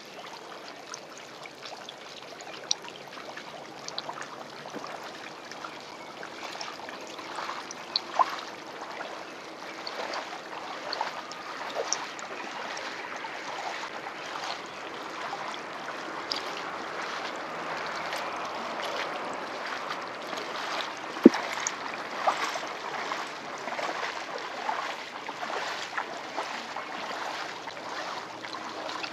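Running water: a steady trickling rush that swells a little in the middle, with scattered short chirps and clicks over it and one sharp click about two-thirds of the way through.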